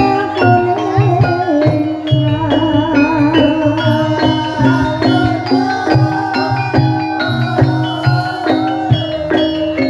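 Ebeg gamelan music: metallophones struck in a quick even pattern over pulsing low drum and gong notes, with a wavering melody line riding above.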